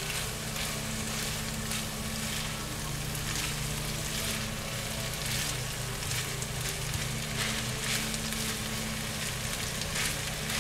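Fried rice sizzling in a hot pan: a steady frying hiss with scattered crackles, over a faint low steady hum.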